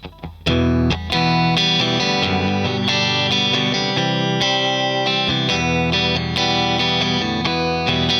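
Electric guitar played through a Madbean Drunken Dragon overdrive pedal, a Lovepedal Eternity clone, with a few faint clicks and then chords and notes ringing out from about half a second in.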